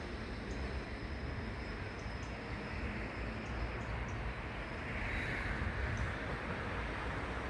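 Railway station platform ambience: a steady low rumble with a thin high whine that fades about halfway through, a few faint sharp ticks, and a brief swell of hiss about five seconds in.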